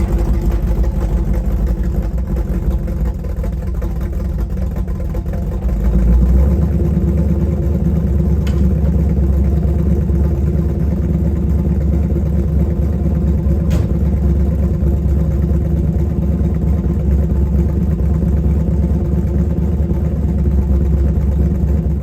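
Freshly installed Chevy 350 small-block V8 running steadily, its engine speed picking up a little about six seconds in.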